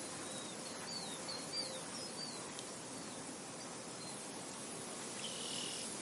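Steady wind hiss over a field, with a small bird giving a quick run of short, high, falling chirps in the first half and one longer high note near the end.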